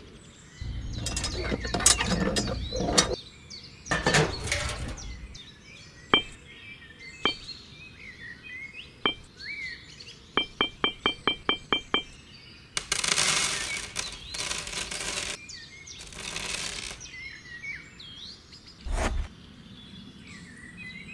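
Birds chirping with small clinks and taps of miniature diorama pieces being handled and set down, including a quick, evenly spaced run of about eight clinks around the middle. Two stretches of hiss in the second half.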